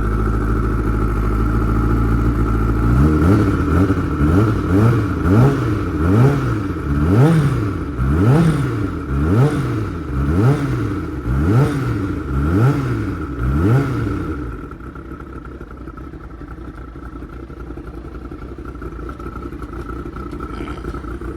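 An engine revving up and down over and over, about once a second, for some ten seconds, then settling to a quieter steady run.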